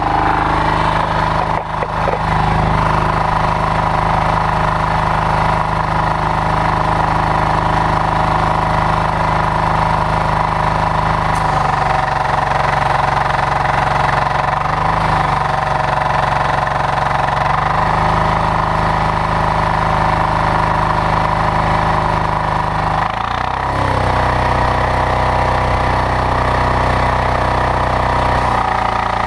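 Loncin diesel engine of a pressure washer, belt-driving its Interpump pump, running steadily at about three-quarter throttle, freshly key-started. Its note shifts a few times, about twelve seconds in and again near the end.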